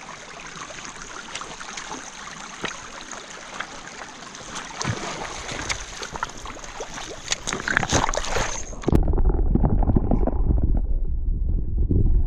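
Flowing stream water, a steady hiss with scattered small clicks. About nine seconds in it switches suddenly to a louder low rumble, like wind or handling noise on the microphone.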